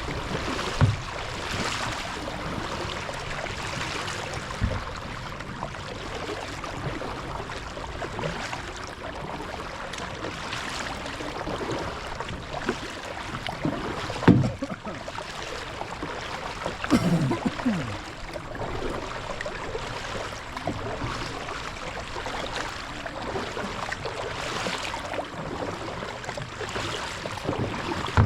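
Kayak paddle strokes dipping and splashing in the water, with a few dull knocks against the kayak.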